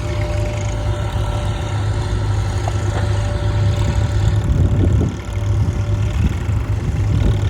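Swaraj 855 tractor's diesel engine running steadily with a low, even chug.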